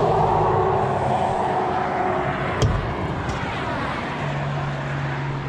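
Steady running of a heavy vehicle's engine, with one sharp knock about two and a half seconds in.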